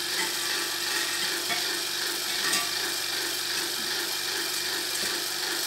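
Hairdryer running at a steady pitch, a broad rushing hiss over a low hum. It is drawing air through the casting flask so that the molten bronze is sucked into the mould.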